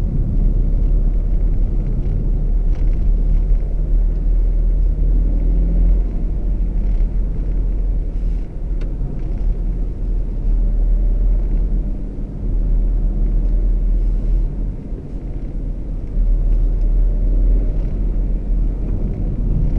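BMW X4 30d's straight-six diesel engine pulling as the car accelerates and drives on, its note shifting in pitch, over a heavy low rumble of road and wind noise.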